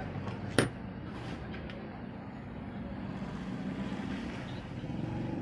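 A single sharp knock about half a second in, over a steady low rumble of background vehicle noise, with a few faint ticks after it.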